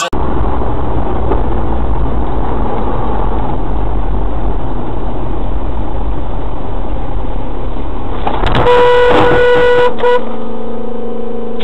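Loud, steady road and engine noise. About eight seconds in, a car horn sounds for about two seconds, followed by a lower, steady horn note that holds to the end.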